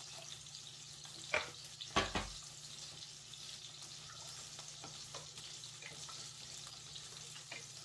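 Fish frying in hot oil in an open pan, a steady sizzle. Two sharp knocks come a little over a second in, the second with a low thud, and a few faint clicks follow.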